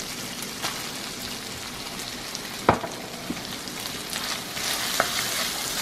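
Diced chicken frying in a hot wok with a steady sizzling hiss as diced red onion goes in, the hiss growing a little louder near the end. A single sharp knock about two and a half seconds in, with a few lighter clicks.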